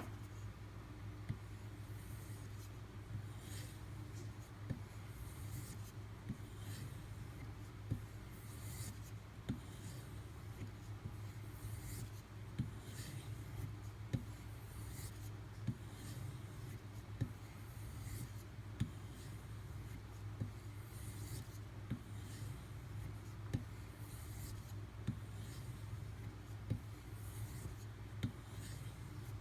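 Knife blade stroked on a leather strop loaded with 1 micron diamond paste: faint, even rubbing strokes with a light tick about every second and a half.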